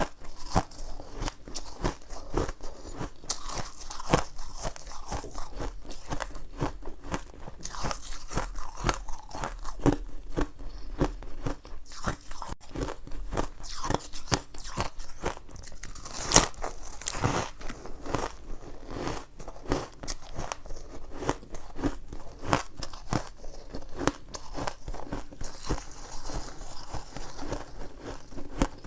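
A person biting and chewing ice close to the microphone: a dense, irregular run of sharp crunches, with one louder crunch about halfway through.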